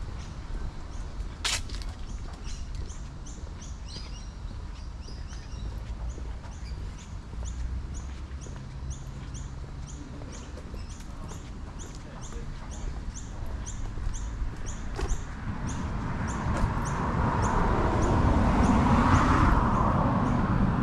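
A bird chirping over and over, short high chirps about two or three a second. Toward the end a passing vehicle swells up and is loudest just before the close.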